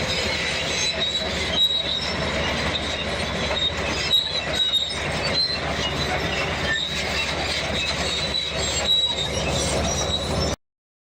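Bulldozer at work: the steel crawler tracks squeal with a high steady note and clank over the engine's running. The sound cuts off suddenly about ten and a half seconds in.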